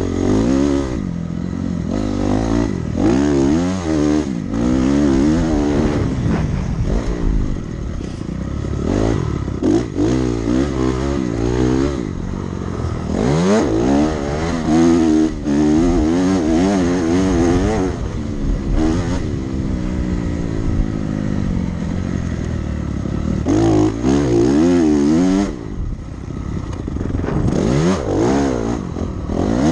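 Dirt bike engine under hard riding, revving up and backing off over and over, so its pitch keeps rising and falling, with brief drops in power.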